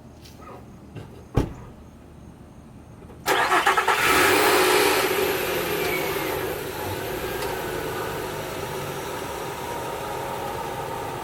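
A single thump, then an engine cranks and catches about three seconds in, runs up fast and settles to a steady idle.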